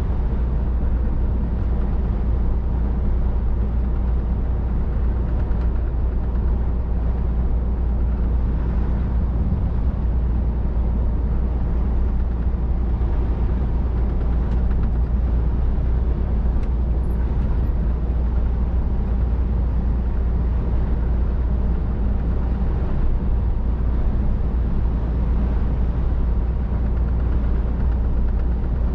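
Scania R500 lorry on the move, its engine and the road noise a steady low drone heard inside the cab.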